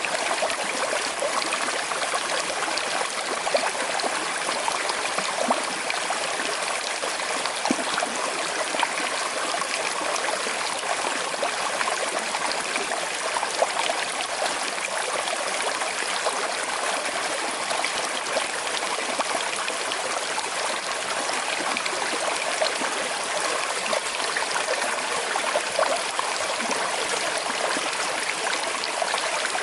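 A small river flowing with a slight current, a steady rush of water with constant small trickling and splashing.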